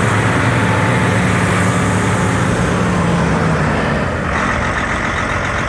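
John Deere 9400T tractor's diesel engine running steadily; its low drone eases slightly down in pitch and changes tone about four seconds in.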